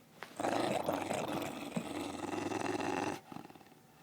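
A dog growling in one long, rough growl of about three seconds that stops near the end.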